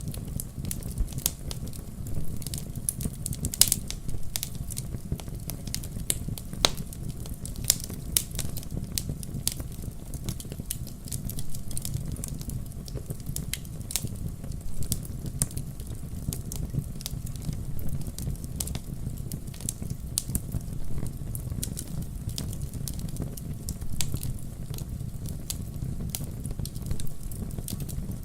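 Campfire burning: a steady low rumble of the flames with irregular sharp crackles and pops from the burning wood.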